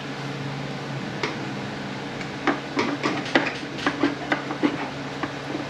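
Irregular metal clinks and knocks as a housing is worked loose from an Aisin Warner 30-80LE (A340F) automatic transmission case, coming thickly from about two and a half seconds in, over a steady low shop hum.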